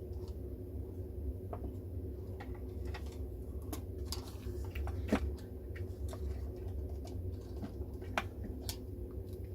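Scattered small clicks and taps of screws and plastic radio-case parts being handled during reassembly, over a steady low hum.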